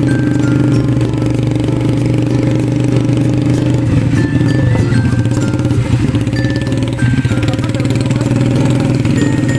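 A small ATV engine running steadily, with a simple tune of short, high notes stepping down in pitch and repeating over it.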